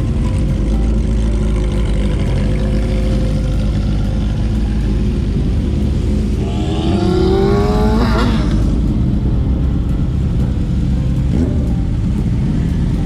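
Motorcycle engines running, with one bike revving up in a rising pitch about halfway through before dropping back.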